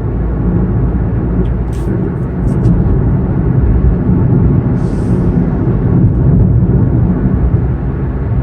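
Steady engine and road rumble inside the cabin of a Kia Morning (TA) being driven. A few faint clicks come about two seconds in, and a brief hiss about five seconds in.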